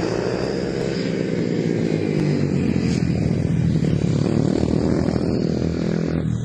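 Several 110cc mini motorcycles running together, their engines revving up and down in overlapping rising and falling pitches. The sound grows louder over the first few seconds.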